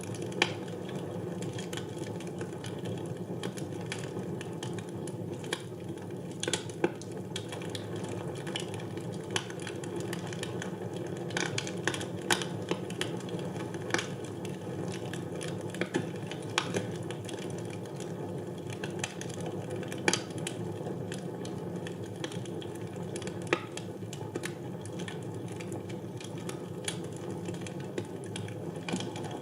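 Wood fire burning in a fireplace: a steady low rush of flame with irregular crackles and sharp pops from the burning logs.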